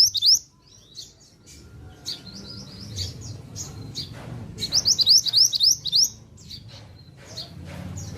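A pied bushchat (mantenan) is singing. It gives repeated bursts of quick, rising, whistled notes, with short pauses between the phrases.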